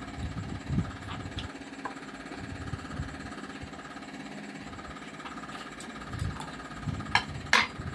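A person chewing cooked pork intestine, with irregular soft low thumps over a steady machine hum. Two sharp clicks come near the end.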